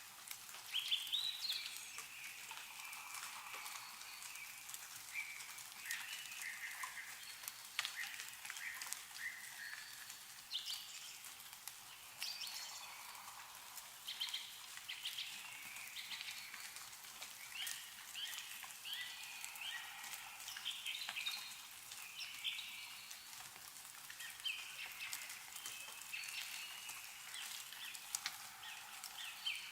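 Small birds chirping and twittering in short, repeated calls throughout, over scattered drips of meltwater falling from snow-covered trees.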